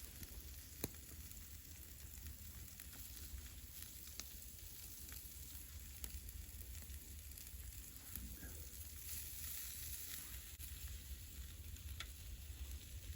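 Wild boar kebabs sizzling over an open campfire, a steady hiss with a few sharp pops and crackles here and there.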